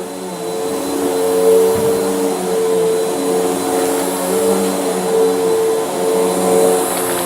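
Bissell vacuum cleaner running steadily, its motor giving a constant whine made of several steady tones over a hiss.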